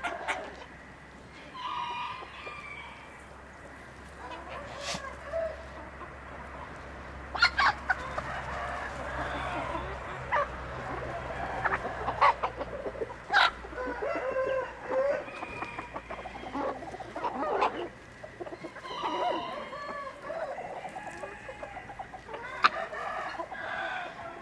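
Chickens clucking and calling on and off, with a few sharp clicks or taps scattered through.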